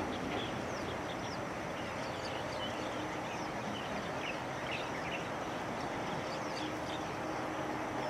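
Many small birds chirping, a few short chirps a second overlapping, over a steady background rumble.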